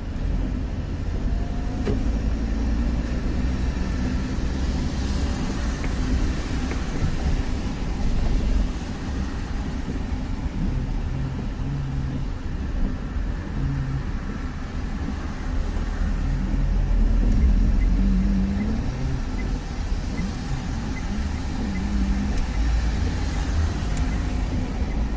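Car on the road: steady low engine and road rumble with tyre hiss, swelling louder a few times, most strongly about two-thirds of the way through.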